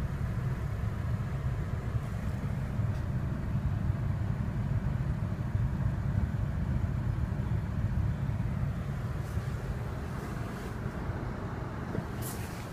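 Chevrolet Lacetti's 1.6-litre F16D3 four-cylinder petrol engine idling steadily once warmed up, with no squeaks or other extraneous noises. A few sharp clicks come near the end.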